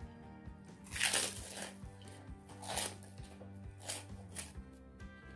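Close-up mouth sounds of eating fried rice by hand: wet chewing and smacking noises, loudest about a second in, again near three seconds and twice around four seconds, over steady background music.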